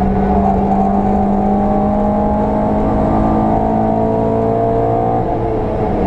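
VW Polo 86C's engine pulling at a nearly steady pitch along the Nordschleife. The note changes a little past five seconds in.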